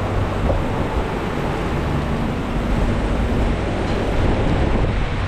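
Heavy rain pouring down in a steady, dense hiss, with a low steady hum underneath.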